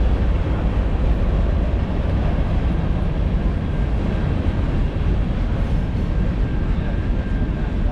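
Freight train rolling past: a loud, steady rumble of wheels and cars on the rails.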